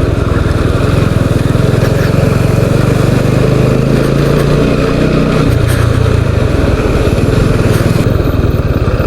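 Motorcycle engine running as the bike is ridden slowly, the engine note changing about five and a half seconds in.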